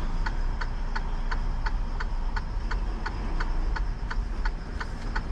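Rapid, even mechanical ticking, about four ticks a second, over a steady low rumble.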